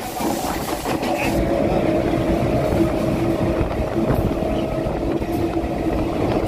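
Passenger train running along the track, heard from inside a coach: a steady rumble of wheels on rails with a steady hum running through it.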